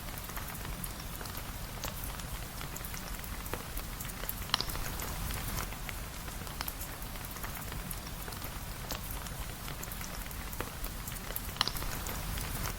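Steady rain ambience: an even hiss of rainfall over a low rumble, dotted with scattered sharp ticks, two of them louder about four and a half seconds in and near the end.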